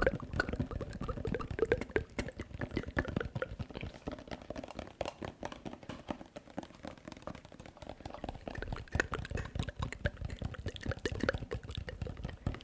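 Close-miked ASMR mouth sounds: a dense, uneven run of small wet clicks and smacks, thinning briefly about halfway through.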